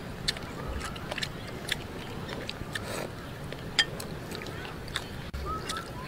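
Close-up chewing of a sticky rice dumpling (zongzi), with irregular wet mouth clicks and lip smacks.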